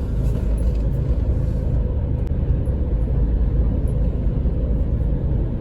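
A car being driven, giving a steady low rumble of engine and road noise.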